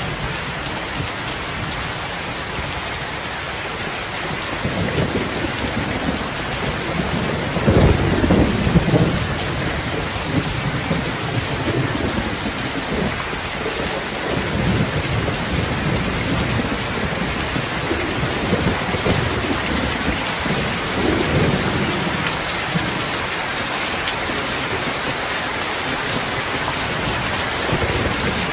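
Heavy rain falling steadily, with rolling thunder: a low rumble builds from about five seconds in and is loudest around eight to nine seconds, followed by fainter rumbles later on.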